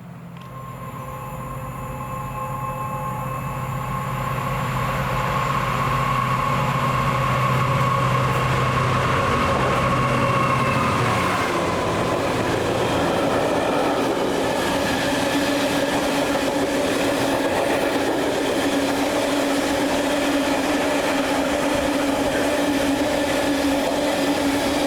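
A train approaching and running past, growing louder over the first five seconds or so and then holding steady, with a steady running hum whose pitch shifts about eleven seconds in.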